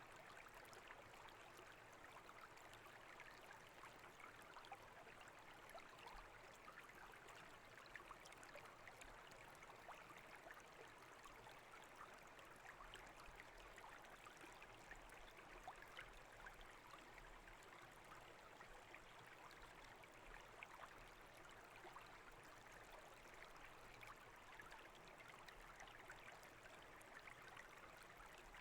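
Small brook babbling: a faint, steady rush of flowing water with many tiny irregular splashes and trickles.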